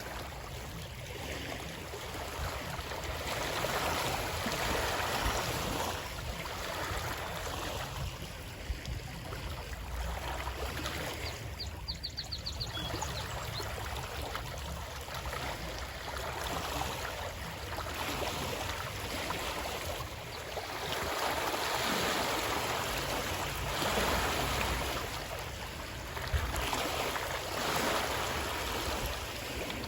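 Stream water flowing steadily, its rushing swelling and easing every few seconds over a low rumble.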